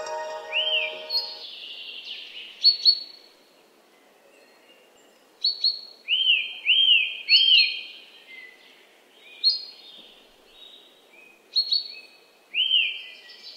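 Birds calling: short arched whistled notes, often two or three in quick succession, with sharp higher chips between them. A brief musical chime fades out just after the start.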